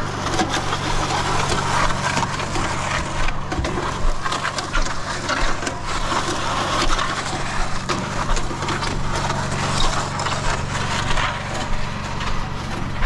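Portable concrete mixer running with a batch of concrete: a steady motor hum under a continuous crackling rattle of concrete tumbling in the turning drum.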